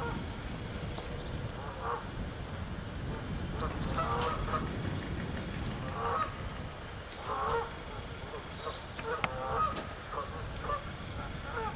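Birds calling repeatedly, with short honking calls coming every second or two over a steady low background noise.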